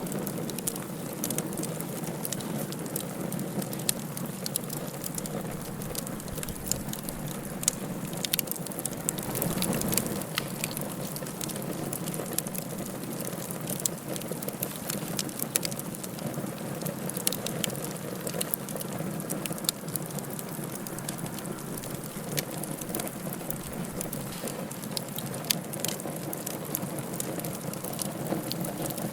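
Wood fire burning in a fireplace: a steady low rush of flame with frequent sharp crackles and pops scattered throughout.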